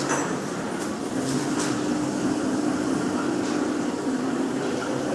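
Automatic tea sachet packing machine running with a steady hum and a few faint, irregular clicks.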